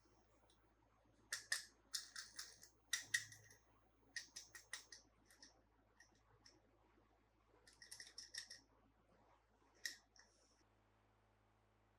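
Short bursts of quick small clicks and crinkles from handling plastic toys and packaging, coming in about five clusters and stopping a little before the end.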